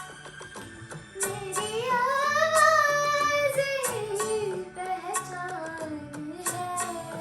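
A female voice singing a slow Hindi film song over an instrumental backing with light percussion ticks; about a second in she holds one long note with vibrato that rises and then falls for about three seconds before the line steps down.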